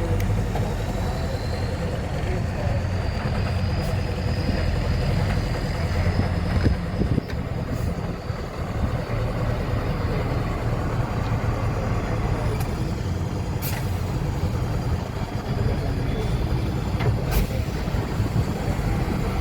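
Heavy truck diesel engine running steadily at low revs, with a faint high whine in the first half and a couple of short sharp hisses or clacks later on.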